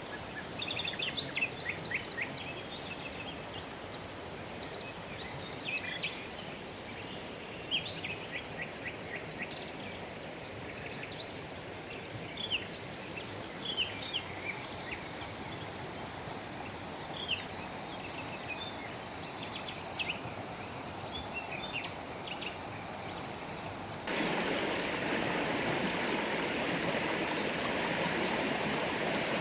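Many small songbirds chirping and trilling over a steady rush of flowing river water. About 24 s in, the water suddenly becomes much louder and fills the sound, with the birds hardly heard.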